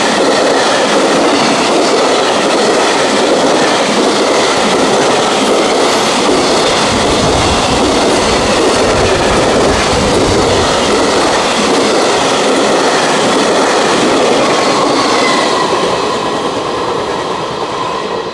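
Freight train running past, a steady loud rumble and clatter of wheels over the rail joints, fading away near the end.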